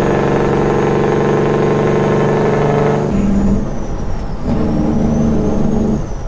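Engine brake on a Peterbilt 389 glider's diesel: a loud, steady, deep drone. It breaks off about three seconds in and comes back in two shorter spells.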